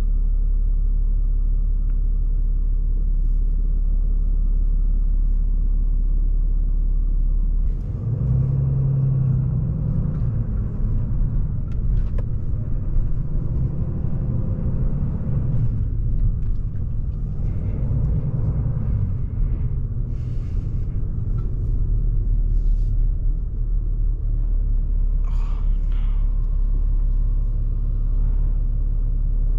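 Vehicle engine idling with a steady low hum. About eight seconds in, the vehicle moves off, and engine and road noise rise and fall as it drives.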